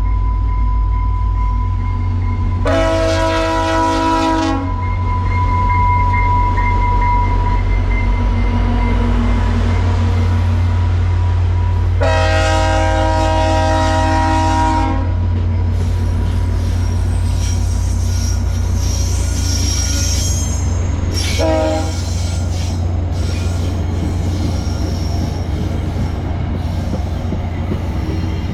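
A locomotive horn sounds two long blasts and then a short one, the pattern of a grade-crossing warning, over the heavy continuous rumble of a train running on the rails.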